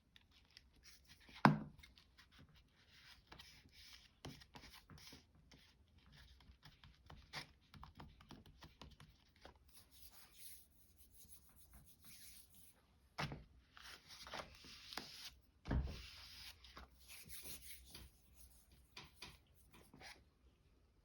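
Paper and card being handled, rustled and rubbed, with scattered small clicks and a sharp knock about a second and a half in, then two more knocks later on.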